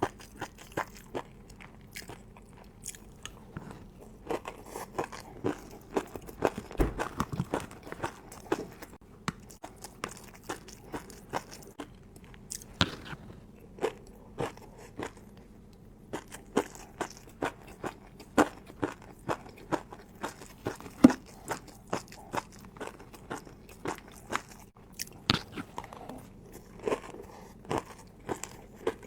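Close-miked eating: a person biting and chewing crunchy fried noodles, with irregular sharp crunches and crackles, a few each second.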